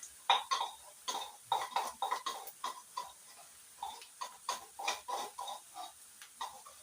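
A spoon stirring onions, ginger and garlic in a cooking pot, scraping and knocking against the pot in quick, irregular strokes, a few each second.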